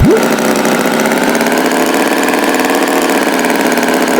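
Cartoon tractor engine sound effect running at a steady idle, an even buzzing drone, with a short swooping whistle right at the start.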